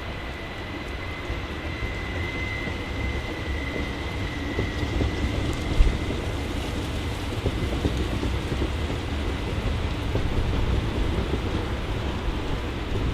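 Train rolling through a station: a steady rumble of wheels on track, with a thin high whine that fades away a few seconds in and a single knock about six seconds in.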